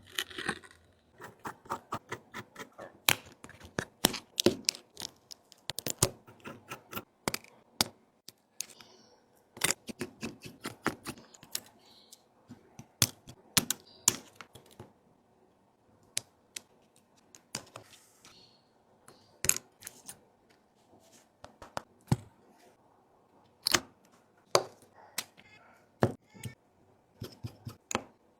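Small repair tools and phone parts clicking and tapping during a Samsung Galaxy S21 Ultra screen replacement: many sharp, irregular clicks, some close together, with short pauses between them.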